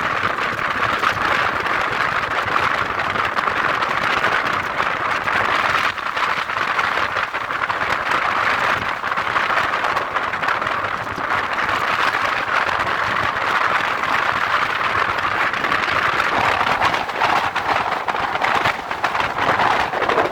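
Moving train running steadily, a constant rushing noise of wheels on the track and air.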